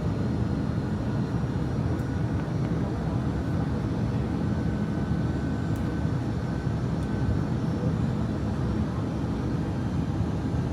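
Airbus A319 cabin noise heard from inside the cabin: a steady low drone of the engines and airflow, with a faint steady high tone above it.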